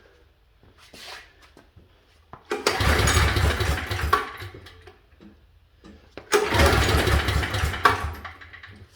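Briggs & Stratton 5,550-watt portable generator's small gas engine being pull-started twice, each pull turning it over with a short burst of cranking noise that dies away without the engine catching: a hard-starting engine that will not run.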